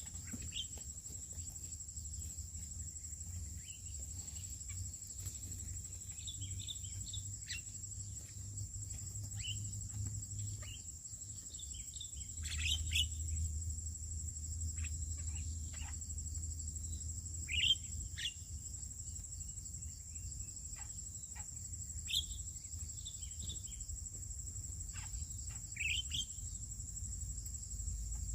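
Scattered short bird chirps over a steady, high-pitched insect drone, with a low rumble underneath.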